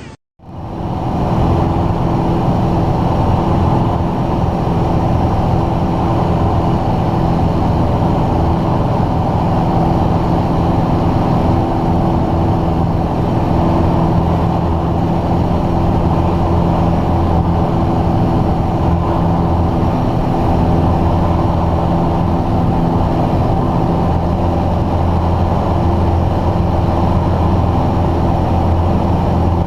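Light aircraft's piston engine and propeller droning steadily in flight, a constant hum with a few fixed tones over rushing noise. It starts abruptly just after a brief gap at the very start.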